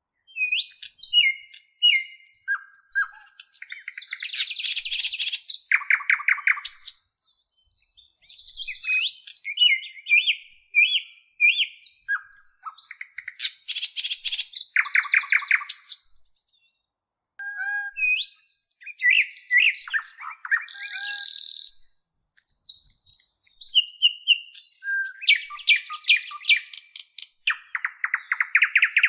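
Birds singing and calling: a varied, busy run of chirps, short gliding whistles and fast trills, with two brief pauses in the middle.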